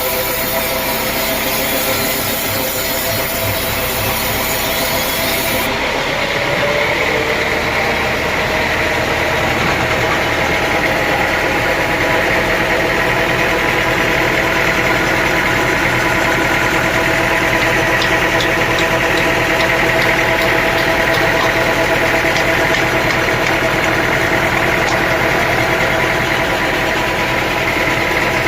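Sawmill machinery running steadily, a loud continuous mechanical hum with several held tones. About six seconds in, a high hiss drops away suddenly while the machine runs on.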